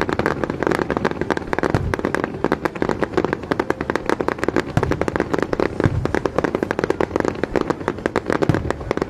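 Fireworks display: a dense, continuous crackling and popping of many shells bursting, several cracks a second, with a few deeper thuds mixed in.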